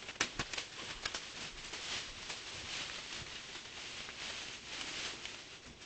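Lovebird working with its beak: a few quick sharp clicks near the start, then a steady papery rustling, the sound of the bird shredding strips to tuck into its feathers.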